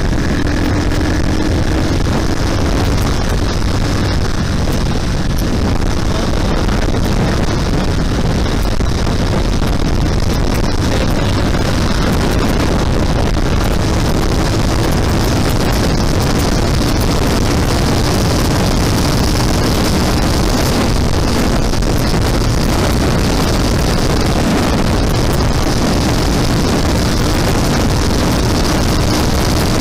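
Bristol Classic 400i 400cc motorcycle running at a steady cruising speed, its engine drone mixed with loud wind rushing over the microphone.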